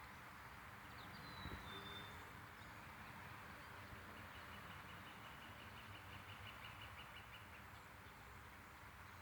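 A bird calling faintly: a couple of short high whistled notes about a second in, then a rapid, even trill lasting about three seconds, over a steady hiss.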